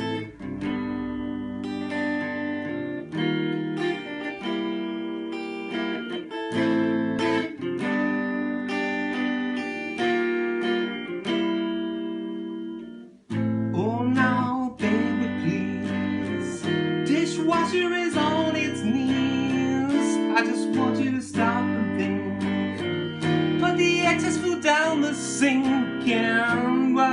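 Instrumental song intro in F minor: acoustic guitar chords strummed and held, breaking off sharply about halfway. The chords resume with a melody line of bending, sliding notes playing over them.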